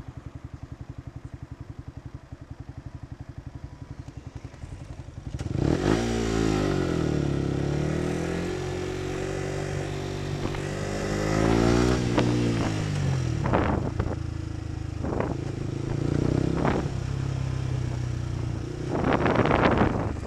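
Yamaha motorcycle engine idling steadily, then pulling away about five seconds in, its pitch rising and dropping through gear changes before it settles at low road speed. A few sharp knocks come later, and a short burst of loud noise comes near the end.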